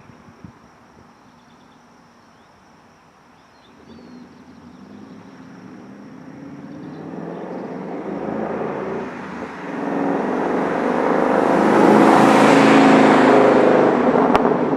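2013 Mustang GT's 5.0-litre V8 through a Solo Performance axle-back exhaust, driving up and passing by. It is faint at first, builds over several seconds to its loudest near the end, then starts to fade.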